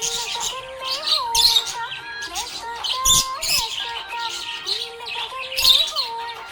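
Budgerigar chirping and warbling in quick, high chirps, over background music with a gliding melody.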